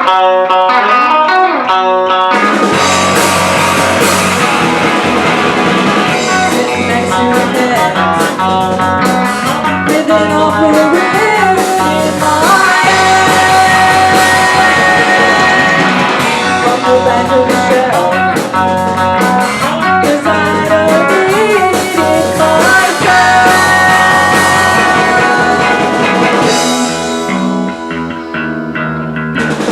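Rock band playing live: a guitar opens alone, and the full band comes in about two seconds in.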